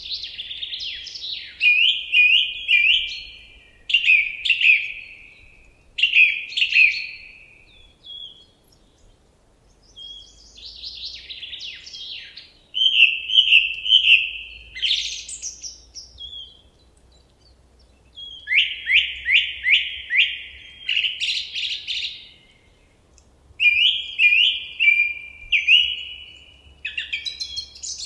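A songbird singing in short repeated phrases of clear whistles and quick trills, with brief pauses between the phrases.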